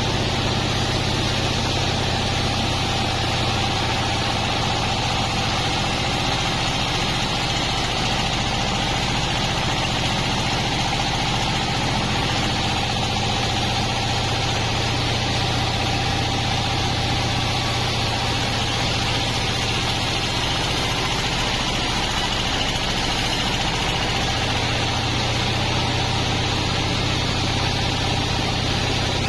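Sawmill band saw machinery running steadily: a continuous mechanical hum with a fixed whine, unchanged throughout.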